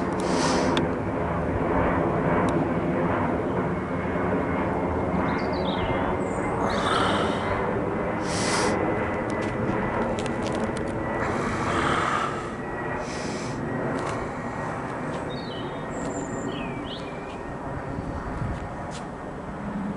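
Airbus A220-300 airliner passing low overhead on descent, its Pratt & Whitney PW1500G geared turbofans giving a steady broad rumble that slowly fades over the second half.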